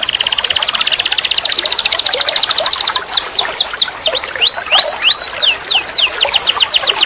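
Domestic canary singing a series of rapid trill phrases. A fast, even trill gives way about three seconds in to quicker downward-sweeping notes, then upward-swept whistles, then falling notes and a fast trill again near the end.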